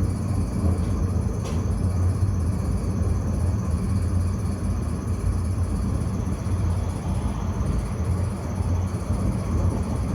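Tram running along the track with a steady low rumble, and a faint click about one and a half seconds in.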